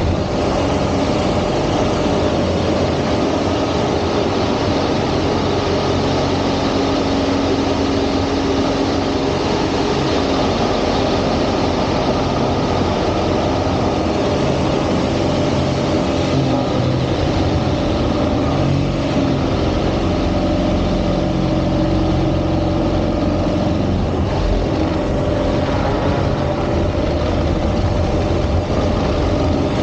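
Rob Holland's single-engine aerobatic airplane, its piston engine and propeller running loud and steady, with the pitch drifting a little up and down.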